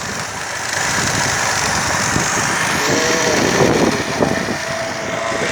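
Engine and road noise of a moving vehicle climbing a winding hill road, heard from on board, with wind noise. A steady pitched tone joins about three seconds in and holds.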